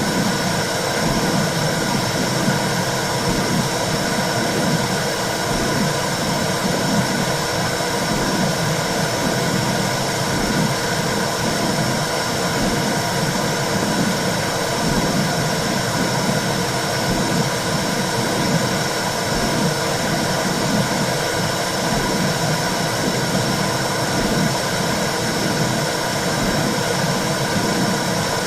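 Womb-sound recording for soothing a baby: a steady rushing noise with faint steady tones, over a low pulsing throb.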